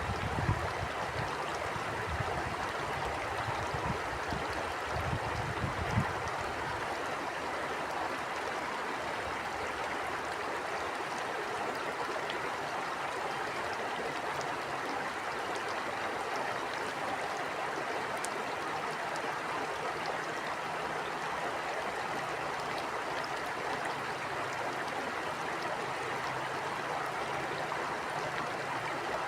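Stream water flowing steadily, with an even rushing and gurgling. Gusts of wind buffet the microphone with a low rumble during the first few seconds, then die away.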